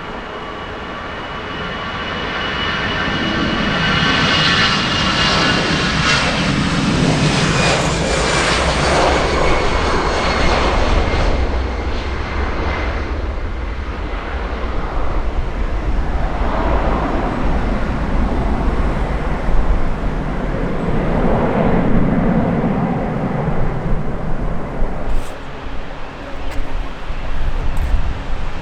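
Jet airliner's engines passing close by: a high fan whine with tones gliding slowly down swells into a loud roar, then gives way to an uneven, rumbling roar. A few sharp clicks near the end.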